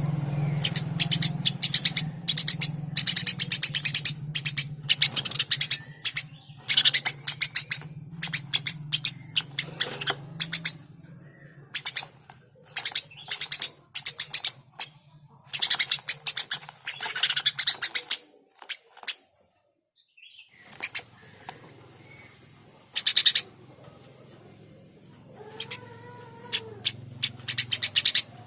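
Eurasian tree sparrow chirping in quick runs of rapid, high chirps, again and again, with a steady low hum underneath. The sound drops out almost completely for a couple of seconds about two-thirds of the way through.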